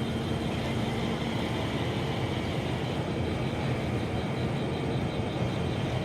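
Nuriro electric multiple unit pulling away from the platform: a steady rumble of the moving train with a low hum.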